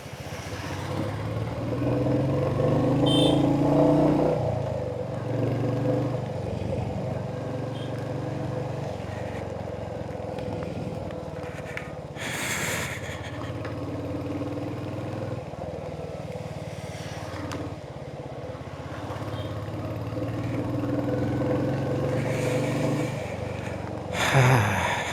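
Royal Enfield Hunter 350's single-cylinder engine running under way, its note rising and falling in stretches as the throttle and gears change.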